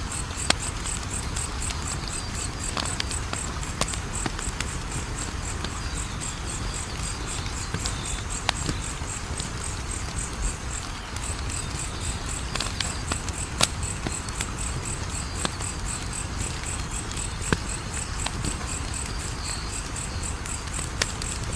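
Wood fire crackling, with occasional sharp pops over a steady low hiss, while crickets chirp in a fast, even pulse.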